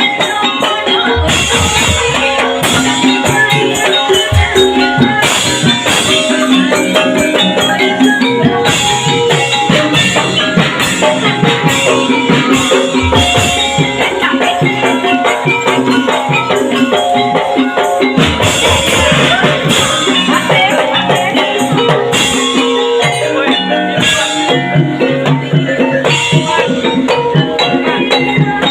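Loud, continuous Javanese gamelan-style music for an ebeg horse-trance dance: hand drums beating a steady rhythm under ringing pitched percussion and shaken rattles.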